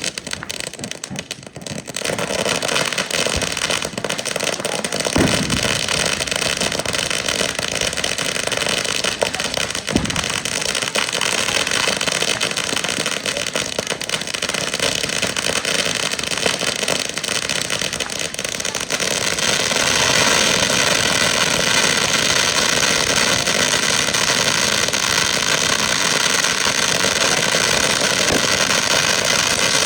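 Ground firework fountains spraying with a steady, dense hissing roar, with a couple of short pops and a clear rise in loudness about 19 seconds in.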